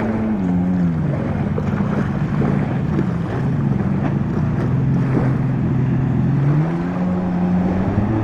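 Jet ski engine running; its pitch drops about a second in, holds low for several seconds, then rises again near the end as the throttle is opened.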